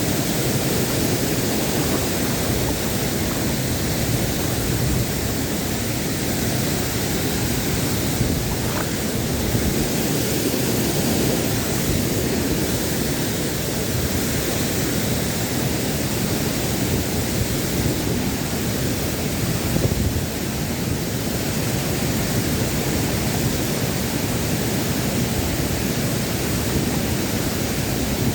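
Waterfall's rushing water, a loud steady roar of falling and flowing water.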